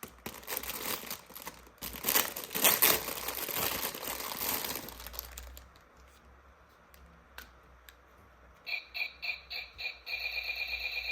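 Plastic toy packaging crinkling and tearing for about five seconds as it is opened. After a short pause, a toy's electronic sound chip beeps several times, then goes into a fast, steady pulsing tone near the end.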